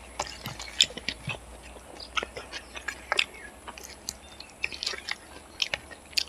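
Close-up eating sounds of a person chewing fried rice and chicken eaten by hand: irregular wet smacks and clicks of the mouth, several a second.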